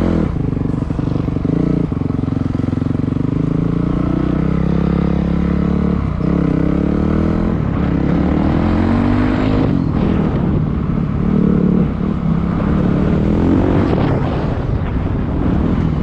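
Dirt bike engine running under way, its pitch climbing and dropping again and again as the throttle is worked, with sharp drops about six and ten seconds in.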